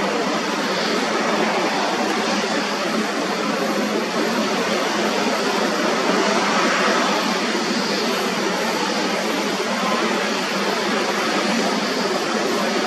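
Jet airliner engines heard as a loud, steady rushing noise.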